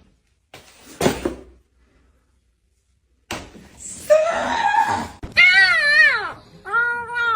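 A short noisy burst about a second in, then after a gap a noisy stretch and two long, drawn-out cat yowls near the end, each rising and falling in pitch.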